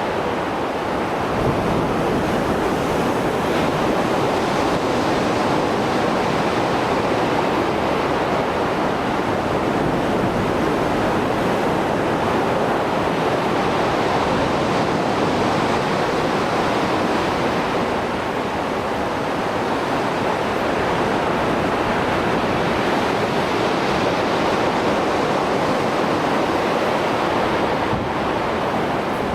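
Mediterranean Sea surf still running high after a storm: a continuous wash of breaking waves that swells and eases every several seconds.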